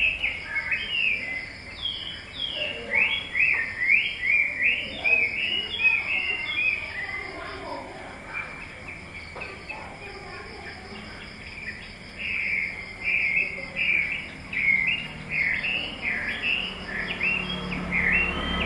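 Small birds chirping: many short, high, falling chirps in quick clusters. They thin out for a few seconds near the middle and pick up again after.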